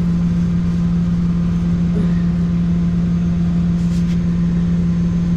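Truck engine idling steadily: a constant low hum over a pulsing rumble, with a few faint clicks about two and four seconds in.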